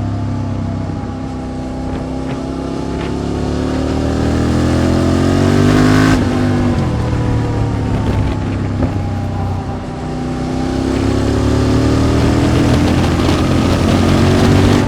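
A QJ SVT650X V-twin motorcycle with an Arrow Racetech exhaust and a remapped ECU, ridden under load. The engine note climbs as it accelerates, breaks off sharply about six seconds in, and falls away for a few seconds. From about ten seconds in it climbs again.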